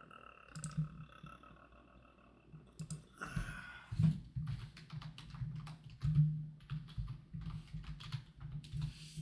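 Quick, irregular clicking of buttons being pressed, thickest from about three seconds in, over a faint low hum. A faint steady tone sounds in the first second and a half.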